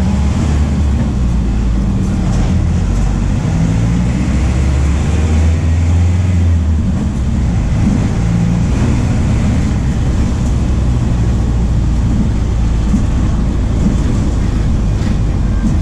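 The diesel engine of a VW 17.230 OD bus, a MAN D0834 four-cylinder turbo diesel, running under way. Its note rises and falls as engine speed changes, over steady road noise.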